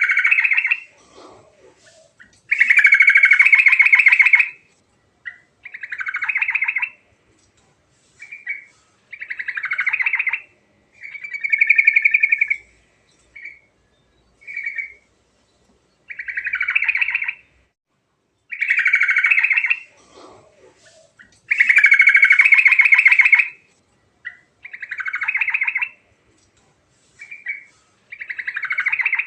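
Yellow-vented bulbul (trucuk) singing short, rapid song phrases one after another, each a second or two long, with brief silent pauses between them.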